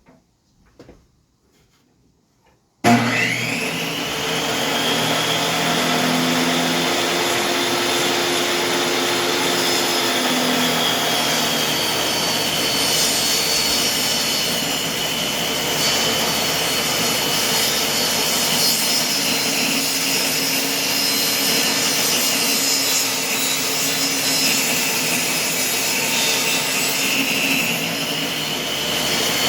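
A few faint clicks, then about three seconds in a table saw switches on and runs steadily with a high whine, its blade ripping a wooden board into strips.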